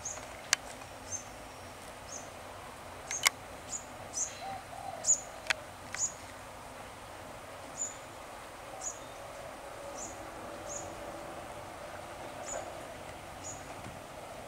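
A small bird chirping, short high chirps repeated at irregular intervals over a faint steady outdoor background. Three sharp clicks in the first half are the loudest sounds.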